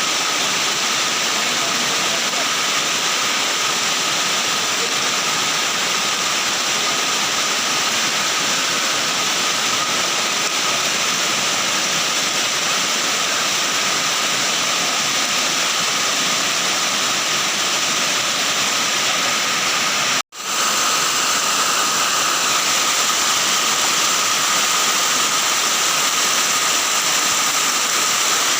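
Steady loud roar of rushing floodwater, broken by a momentary dropout about twenty seconds in.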